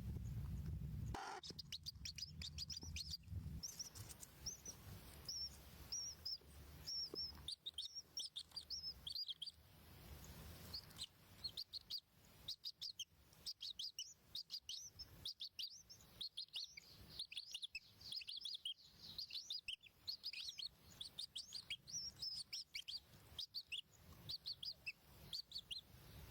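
Nestlings in a nest chirping rapidly: a busy stream of short, high, thin cheeps, several a second. A low hum cuts off about a second in.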